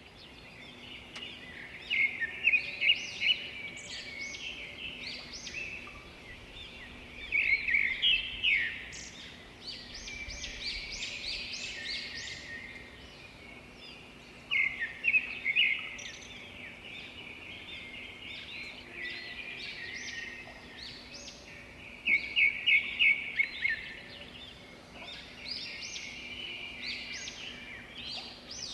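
Songbirds chirping and singing, with four louder bursts of rapid repeated chirps spread through the stretch, over a faint steady low hum.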